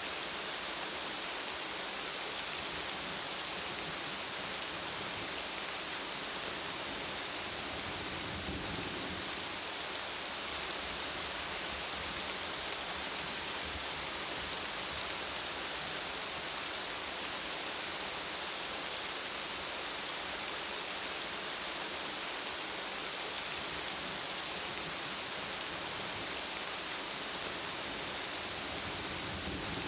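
Steady rain falling, a dense even hiss of drops on hard surfaces, with a faint low rumble swelling briefly about eight seconds in.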